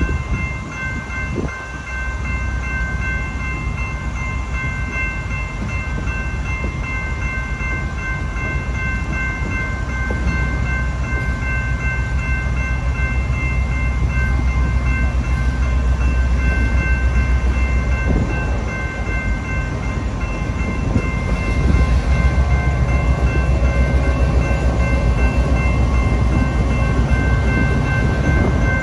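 Freight train cars rolling past at close range: a steady low rumble with continuous wheel-on-rail clatter. Several steady high tones, a whine, run through it the whole time.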